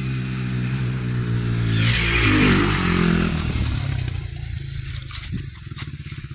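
Honda CRF80F dirt bike's small four-stroke single engine running at steady revs. About two seconds in, a loud rushing, scraping noise rises over it and the engine pitch dips and recovers. Afterwards the engine runs lower and more unevenly, with sharp clattering knocks near the end.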